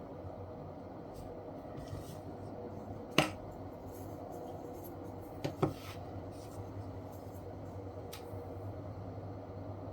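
A few sharp clicks and taps from handling small objects at a workbench, over a steady low hum: one loud click about three seconds in, a quick pair a couple of seconds later, and a faint tick near the end.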